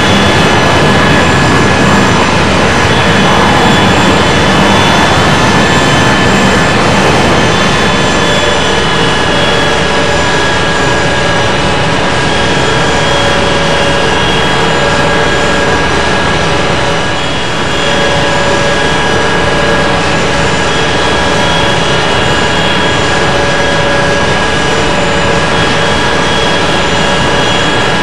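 Airbus A380's four turbofan engines heard from inside the cabin: a loud, steady roar with several steady whining tones over it, dipping slightly for a moment past the middle.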